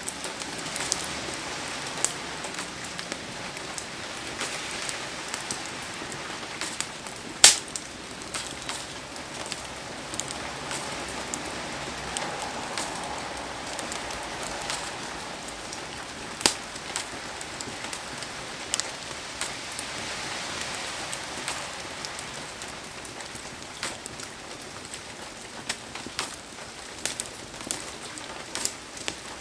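Heavy rain falling steadily around a wood campfire, with scattered sharp pops and cracks. The loudest crack comes about seven and a half seconds in, and another strong one comes about sixteen seconds in.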